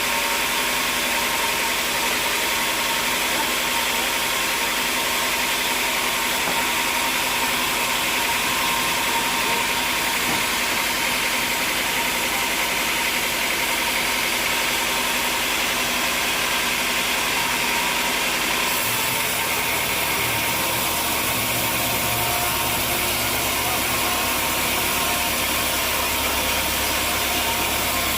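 Machinery engine running steadily, a continuous mechanical drone. About two-thirds of the way through, its low hum shifts to a deeper note.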